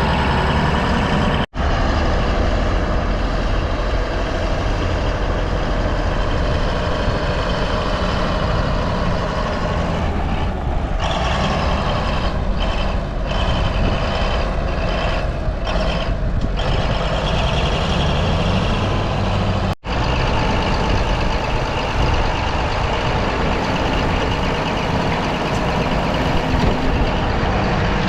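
Bulldozer's heavy diesel engine running loudly and steadily as the machine works, with two sudden brief dropouts where the footage is cut.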